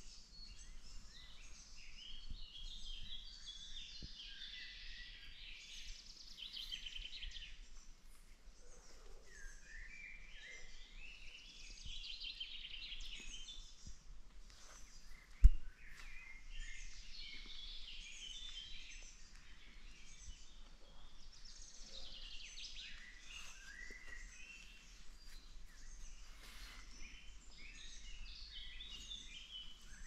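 Several songbirds singing in a forest, with overlapping rapid chirping phrases throughout. A single sharp knock about halfway through is the loudest sound.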